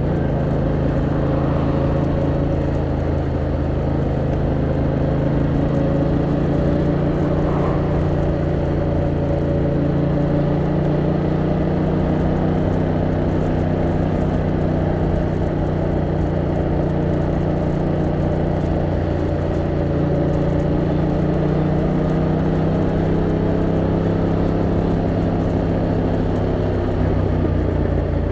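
Yamaha MT-07's 689cc parallel-twin engine idling steadily at one even engine speed, as when stopped in traffic.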